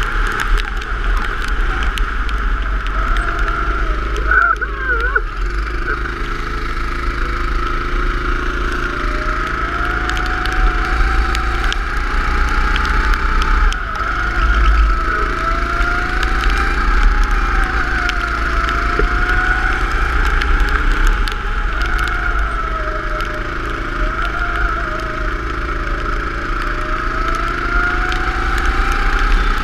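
Go-kart engine running on track, its pitch rising and falling every few seconds as it revs up on the straights and drops off into corners.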